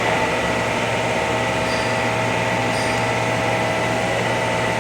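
Rexroth A10VO28 variable-displacement axial piston hydraulic pump running under test during its load-sensing check: a steady mechanical hum with a high whine over it.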